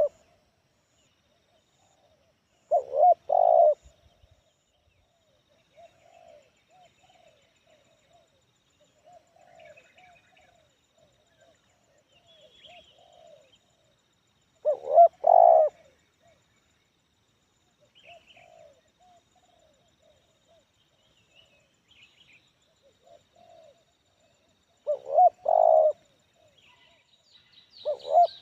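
Spotted dove (tekukur) cooing: a loud, clear phrase comes four times, about 3, 15, 25 and 28 seconds in, with softer coo notes between the loud phrases. Faint high chirps of small birds are heard at times.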